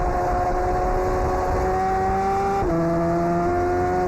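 Motorcycle engines held at steady high revs. The pitch climbs slowly, then dips once about two-thirds of the way through before holding steady again.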